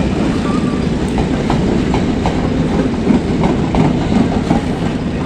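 Passenger train passing, its steel wheels clicking over rail joints in a steady rhythm of about two to three clicks a second over a continuous low rumble.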